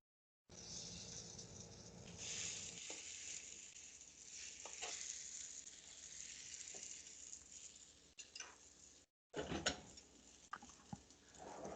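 Breaded chicken pieces frying in hot oil, a faint steady sizzle with a few light clicks and knocks. The sound cuts out completely for a moment twice, at the start and a little after nine seconds in.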